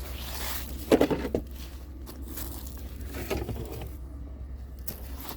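Rustling, scraping and crinkling of objects being handled, with a louder knock about a second in, over a steady low hum.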